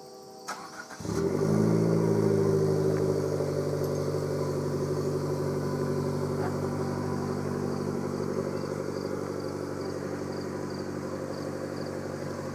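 2014 Chevy Sonic's 1.4-litre turbocharged four-cylinder on a cold start: it cranks and catches about a second in, then settles into a steady fast idle that eases down slowly. It is heard through a new ZZP stainless cat-back exhaust, with a small exhaust leak in the system.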